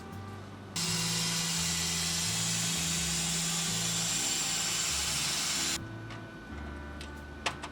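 A workshop power tool running steadily for about five seconds, starting and stopping abruptly, over background music, with a sharp click near the end.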